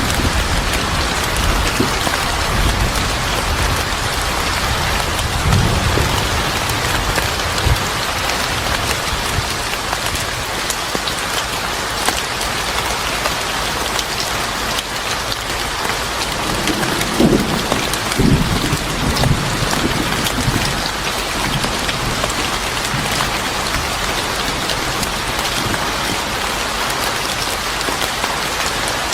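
Steady heavy rain falling on a surface. Low rumbles swell up in the first few seconds and again about two-thirds of the way through.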